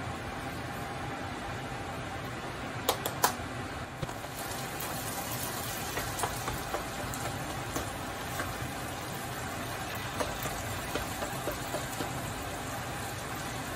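Diced potatoes frying in plenty of olive oil in a pan, a steady sizzle. A few sharp clinks about three seconds in as the pan lid comes off, then the light scrape and tap of a slotted spatula turning the potatoes.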